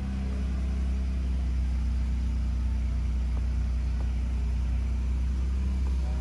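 BMW 1 Series engine idling steadily, heard from inside the cabin as a low, even hum.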